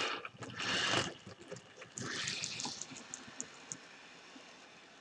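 HO-scale model cab-forward locomotive on layout track: a few short rushing noises in the first couple of seconds, then faint light clicking as it runs over the rails.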